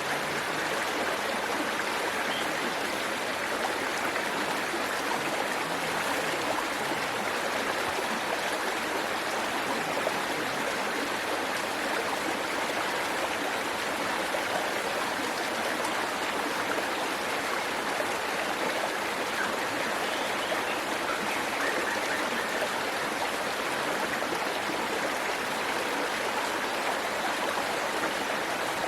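Waterfall water rushing and splashing in a steady, unbroken wash.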